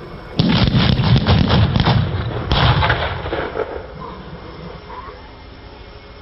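Fireworks going off: a loud bang about half a second in, then a fast run of crackling reports, a second burst around two and a half seconds, and the sound dying away after that.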